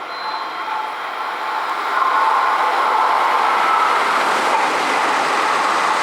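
An N700-series Tōkaidō Shinkansen train passing through the station without stopping: a rushing noise that swells for about two seconds and then holds steady and loud as the train runs past.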